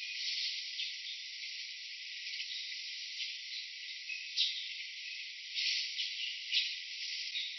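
Steady hiss of insects buzzing and chirping, with a few louder swells about four and a half, five and a half and six and a half seconds in.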